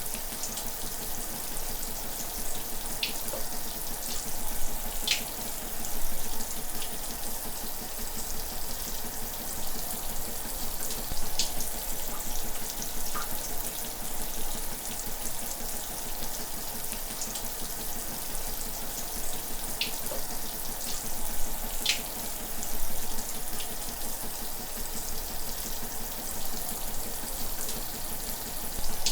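Shower running, a steady hiss of falling water with a few sharp ticks now and then.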